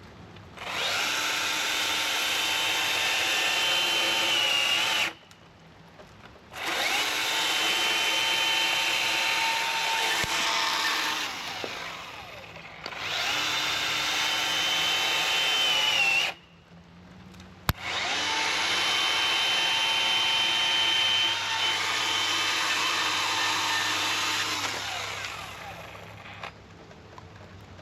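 Milwaukee M18 battery top-handle chainsaw cutting wood in four runs of a steady electric whine, each of the first three cutting off sharply. The saw is stalling out under light pressure despite a new chain and a full battery, a fault the owner can't explain.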